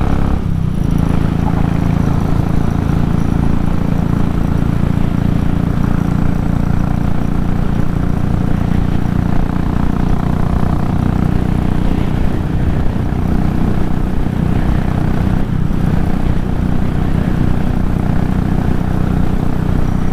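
Royal Enfield 500's single-cylinder engine pulling hard under load as the motorcycle accelerates from a standing start up to highway speed. It runs steadily, with brief dips about half a second and fifteen seconds in.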